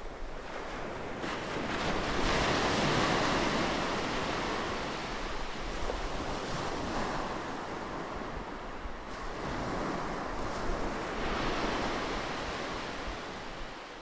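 Rough sea surf breaking and washing over shoreline rocks in repeated surges, the biggest about two seconds in, with wind rumbling on the microphone.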